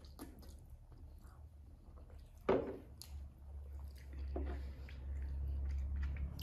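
Chewing and wet mouth sounds of people eating rice and pork curry by hand, with small smacks and one short louder sound about two and a half seconds in.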